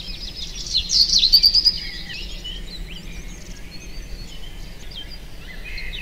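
Many small birds chirping and trilling together, loudest about a second in.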